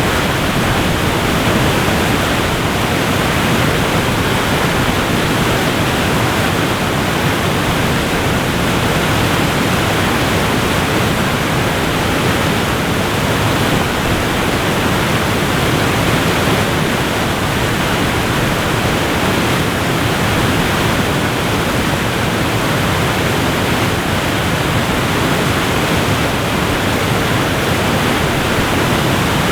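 Waterfall rushing steadily: a dense, even wash of falling-water noise that holds the same level throughout.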